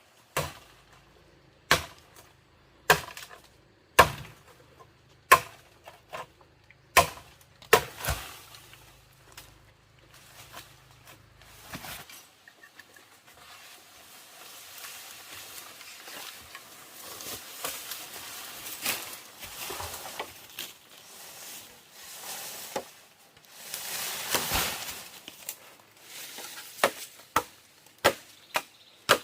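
Chopping with a blade: sharp strokes about a second apart in the first eight seconds, a stretch of rustling noise in the middle, then quicker chops of about two a second near the end.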